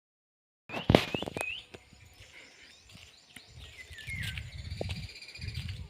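Birds chirping in short rising calls, with a steady high trill in the second half. A couple of sharp knocks come near the start, and a low rumble of wind or handling noise sets in about halfway through.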